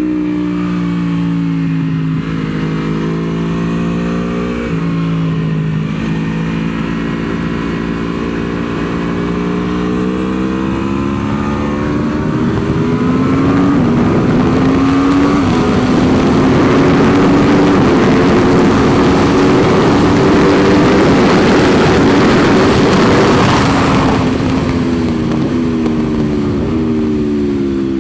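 2023 Aprilia Tuono V4 engine under hard acceleration, its pitch climbing and dropping back at each upshift, with wind rushing on the microphone as speed builds. About 24 seconds in the wind noise cuts off and the engine pitch falls away as the bike slows.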